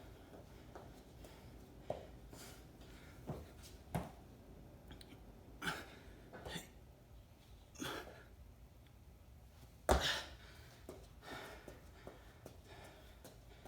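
A person's hard, irregular breaths during a strenuous bodyweight workout, with a few short thuds; the loudest thump comes about ten seconds in.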